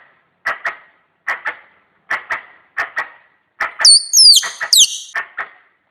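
Squirrel lure calls: sharp double chirps repeating about every 0.8 seconds. About four seconds in come several loud, high whistles that fall in pitch.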